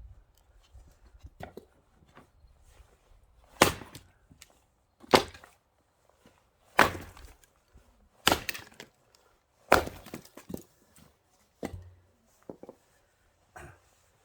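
Axe splitting firewood: about six sharp, splintering strikes roughly one every second and a half, with a few lighter knocks of wood between them.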